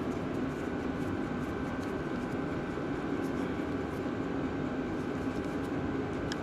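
A steady mechanical hum or whir at an even level, with a few faint light ticks over it.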